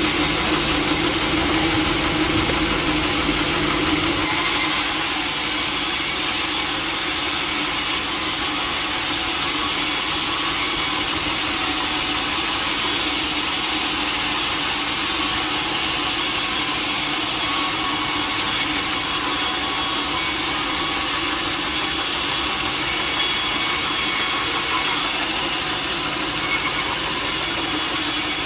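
Sawmill blade cutting lengthwise through a large log: a continuous, harsh high sawing noise over a running engine. About four seconds in, the low rumble fades and the sawing turns brighter.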